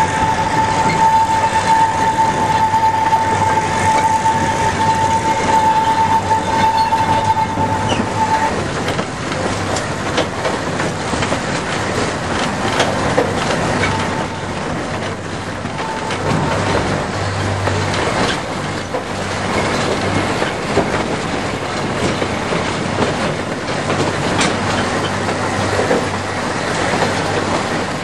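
2ft 6in narrow-gauge train running along the track, its wheels rumbling and clicking over the rail joints. A steady high wheel squeal sounds for roughly the first eight seconds and then stops.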